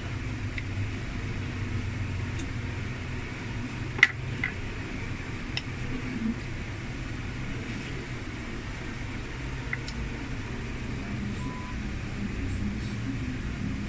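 Steady low background hum with a few light clicks and one sharper click about four seconds in.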